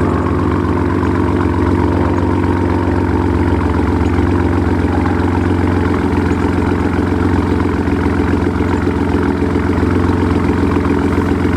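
Ford 3.5L EcoBoost twin-turbo V6 idling steadily after a cold start, heard through a Corsa Extreme exhaust with the resonator deleted; a deep, even exhaust note.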